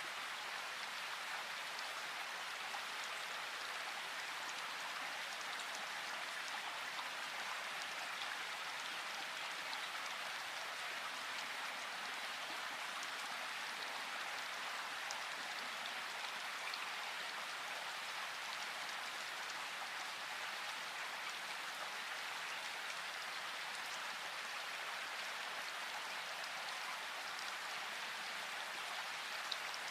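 Steady rain falling in a forest: an even hiss with fine scattered drop ticks.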